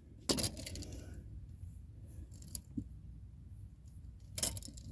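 A brief scrape about a third of a second in, a couple of faint clicks in the middle, and another short scrape near the end, with quiet between them: small handling noises.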